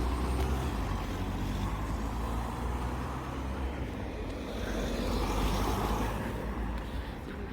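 Moving car's engine and road noise, a steady low rumble that swells a little about two-thirds of the way through.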